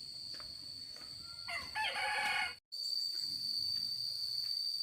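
A rooster crows once, about one and a half seconds in, and the crow is cut off suddenly by a brief dropout. A steady high-pitched insect drone runs underneath.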